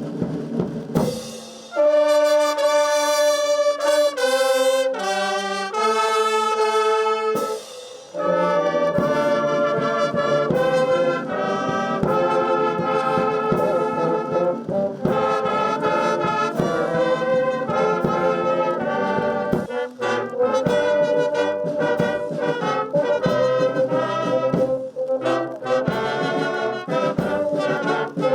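Brass band music: a few long held brass notes, then a fuller passage with many instruments playing together from about a third of the way in.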